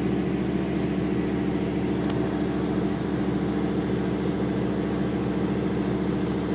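Jeep engine idling, a steady low drone that does not change.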